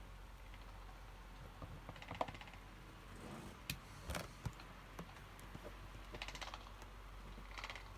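Faint scattered clicks and taps, with a few short runs of rapid ticking, from handling the cracked box and the glue during the repair.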